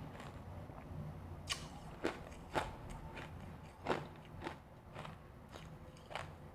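Close-miked bites into refrozen powdery freezer ice: a handful of irregular, sharp crunches as it is bitten and chewed, the loudest about four seconds in.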